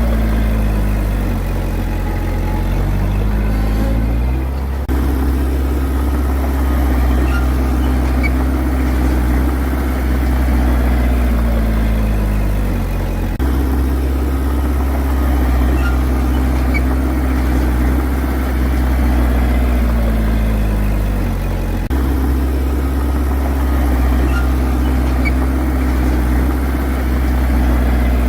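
Bulldozer's heavy diesel engine running steadily. Its pitch sags slowly and then jumps back up abruptly, three times, about every eight or nine seconds.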